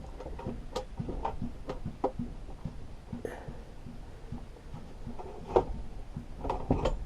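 Scattered light clicks and knocks of a hook tool and metal parts being worked at a lawnmower's rear axle spring and bracket, the sharpest click a little past halfway, over a low steady hum.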